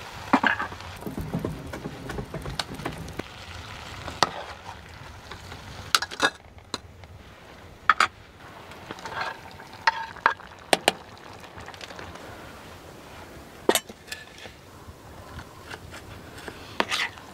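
Cooking sounds: scattered clinks and knocks of utensils against pots and dishes, about one every second or two, over a faint steady sizzle.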